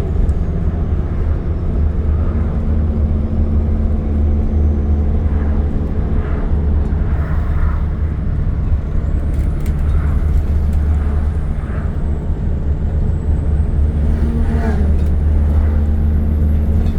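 Scania N230UD double-decker bus under way, heard on board: a steady low engine drone with road noise and light rattles, its pitch dipping briefly near the end as the engine note falls.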